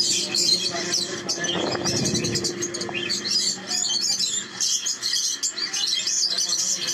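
Many caged birds chirping at once, a dense steady chatter of high chirps.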